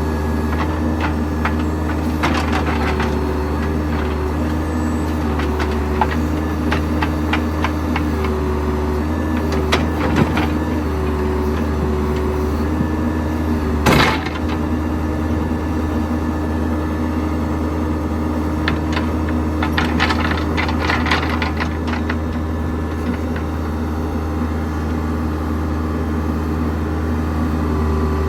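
Case 580L backhoe's diesel engine running steadily, with scattered knocks and clanks from the working machine. One sharp, loud clank comes about halfway through.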